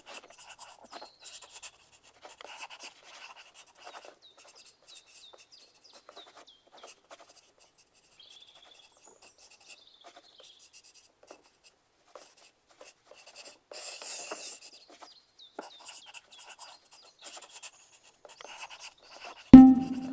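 Pencil writing on paper: scratching strokes with small taps. Near the end a loud chime begins, the signal that the timer has run out.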